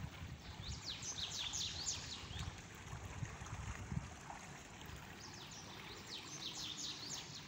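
A small bird singing: a run of quick, high, falling chirps near the start and another about five seconds in, faint over a low outdoor rumble.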